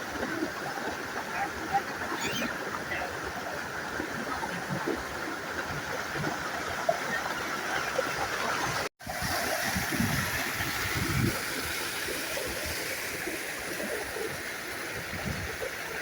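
Flowing water, an even rushing with small splashes, broken by a brief dropout about nine seconds in where the clip cuts.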